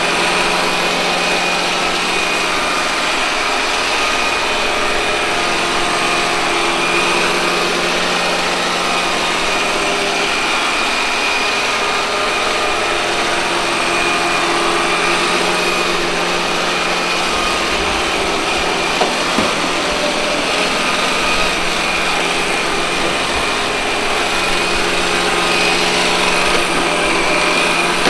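Robot vacuum cleaner running: a steady whine from its suction fan and brush motors, with a constant high tone over a lower hum, and a few light knocks about two-thirds of the way through.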